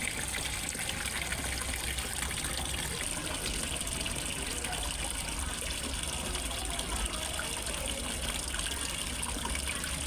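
Water from a small pond waterfall trickling and gushing steadily into a fish pond, an even, continuous splashing.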